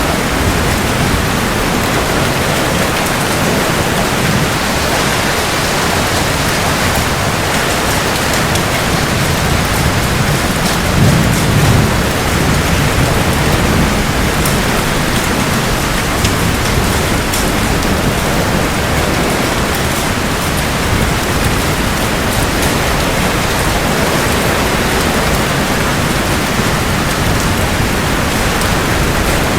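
Steady heavy rain falling, with a brief low rumble of thunder about eleven seconds in.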